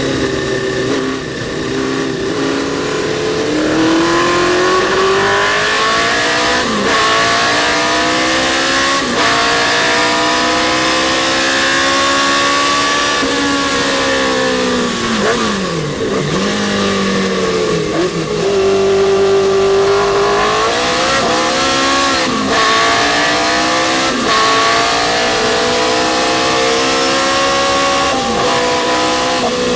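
Historic sports racing car engine running hard at race speed. Its pitch climbs steadily through long pulls, then drops sharply at each gear change, with quick dips and rises in pitch through a braking zone.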